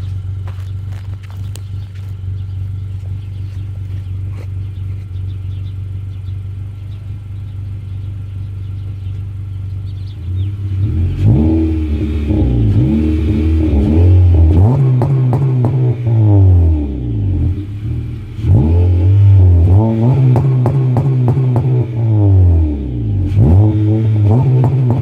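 Honda Accord's 2.4-litre K24W1 four-cylinder, fitted with a carbon fiber exhaust and a cold air intake, idles steadily for about ten seconds. It is then revved hard three times, each rev held briefly before the pitch falls back to idle.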